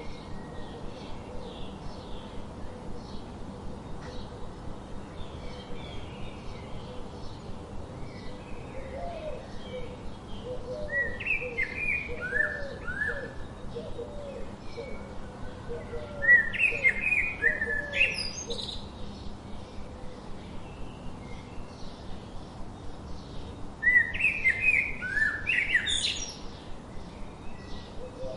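Several birds singing and chirping together. One bird gives a loud song phrase of short falling notes three times, about every six to seven seconds. Softer chirps keep up in the background, and a lower run of short notes comes in the middle.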